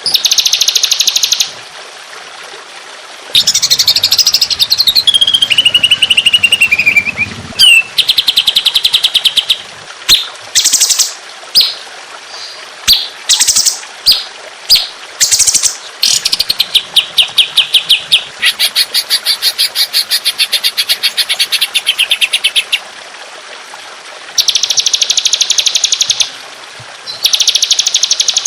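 Songbird calls from a masteran bird-training recording: loud, fast rattling trills of many notes a second, a falling whistled phrase after about three seconds, then strings of short sharp chips and more long trills.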